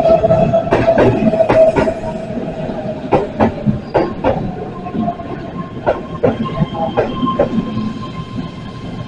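Keihan 13000 series seven-car electric train running in alongside a station platform and slowing. Its wheels clack over rail joints in pairs that come further apart as it slows, under a steady whine that falls slightly and fades about two seconds in. A thin higher tone comes in about halfway through.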